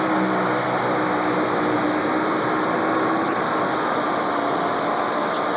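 Modified pulling tractor's multi-engine setup running at a steady pace, a loud even drone of several pitches.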